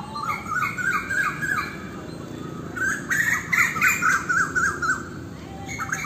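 A bird calling in bouts of quick repeated notes, each note rising then dropping, about five a second, with the bouts growing busier about three seconds in. A low steady rushing noise runs underneath.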